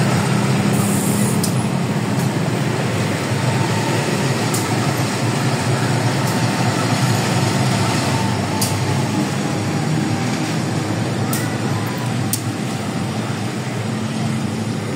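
Train passing close by: a loud, steady rumble of wheels and engine on the rails, with a few sharp clicks.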